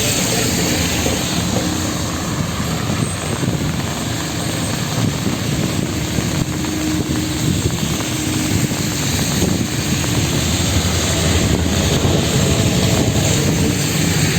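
Steady rush of city traffic, engines and tyres, on a rain-wet avenue.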